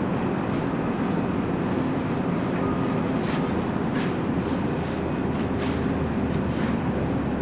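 A steady low mechanical rumble, with a few light clicks or taps scattered through it.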